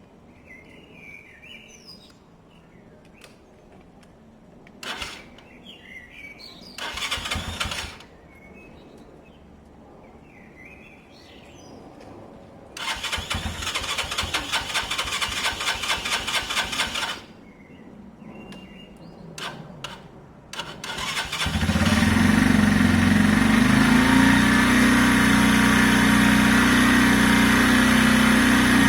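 Benelli Keeway 125cc motorcycle engine being cranked to start it for the first time after sitting. There is a short burst of cranking, then about four seconds of steady cranking and a few clicks. About twenty seconds in it fires up and settles into a steady idle.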